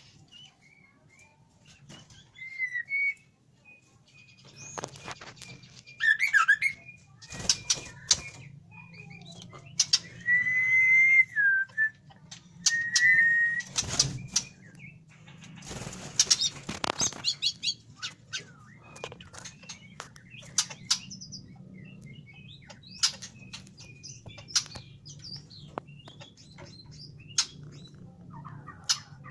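White-rumped shamas (murai batu) fluttering and hopping, with wing flaps and sharp knocks scattered through, and a few short whistled calls and chirps in between. A faint steady low hum runs underneath.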